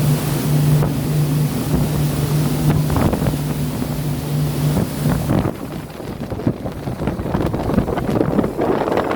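Sea and wind noise buffeting the microphone, with a steady low hum that stops about five seconds in.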